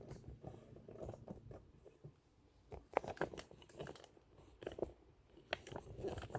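Irregular small clicks and knocks of hands handling the metal parts of a vintage sewing machine, fiddling with a cover and its release button, busier from about three seconds in.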